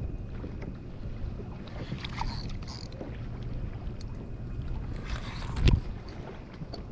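Wind rumbling on the microphone over water noise around a kayak, with one dull thump near the end.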